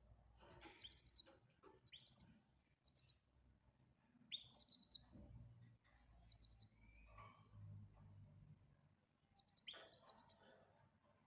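Canary calling with short high chirps, scattered through with pauses, some opening with a quick upward sweep.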